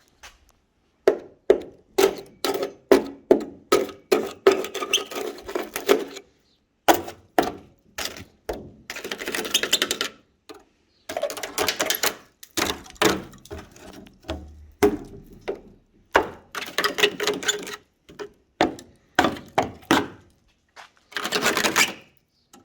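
A run of irregular knocks and thuds, some in quick flurries, with a few short scraping or rasping stretches between them.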